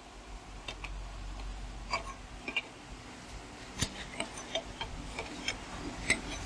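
Light metallic clicks and taps, irregularly spaced about every half second, from hand work setting the ring gear and pinion mesh on a truck's rear differential.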